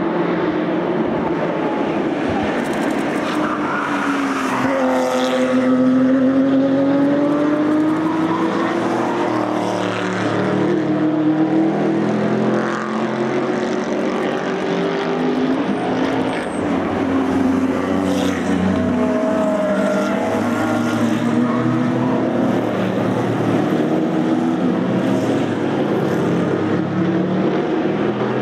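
Race cars with open exhausts going past one after another at racing speed, several engine notes overlapping. Their pitch falls and rises as they brake, shift and accelerate, without a break.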